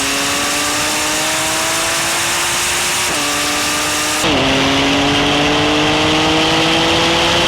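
Porsche 911 Turbo S twin-turbo flat-six under full acceleration, its revs climbing steadily through the gears with two quick upshifts about three and four seconds in, over heavy wind and road noise that grows louder with speed.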